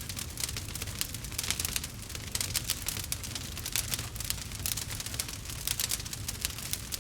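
Wood fire crackling: a dense, irregular run of sharp pops and snaps over a low steady rumble of the flames.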